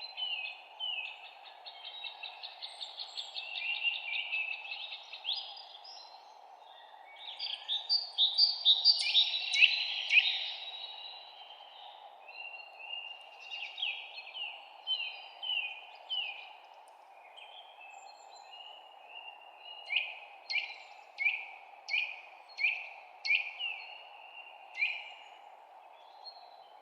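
Forest songbirds singing. A rapid trill comes first, then a dense burst of overlapping song in the middle, then a series of sharp chirps falling in pitch, each less than a second apart. A steady low hiss runs underneath.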